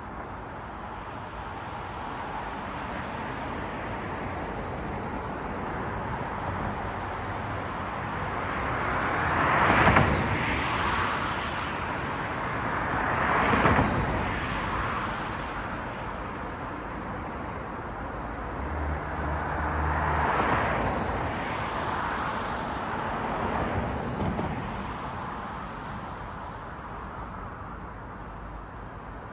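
Night road traffic: a steady hiss of tyres on the road, with about four cars passing one after another, each swelling up and fading away. The first pass, about a third of the way in, is the loudest.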